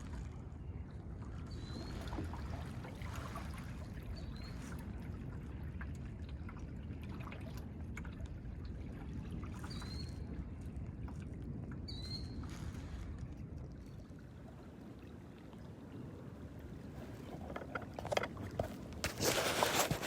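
Steady low rumble of wind and moving river water around a kayak, with a few short high chirps in the first half. Loud knocks and rustling come in near the end.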